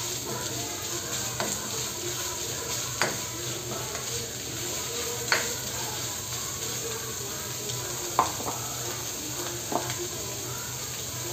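Shredded chicken and onion sizzling in a granite-coated wok as a spatula stirs and scrapes it, with four sharp taps of the spatula against the pan spaced a couple of seconds apart.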